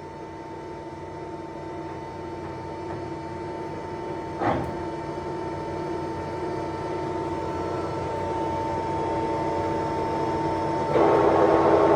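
Summit engine lathe's geared headstock and spindle running with a steady hum, slowly growing louder. A single sharp click comes about four and a half seconds in, and the machine noise steps up suddenly near the end.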